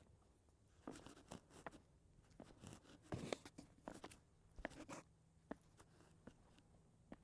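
Faint, irregular crunching steps underfoot, a scatter of soft crunches clustered in the first half, then sparser.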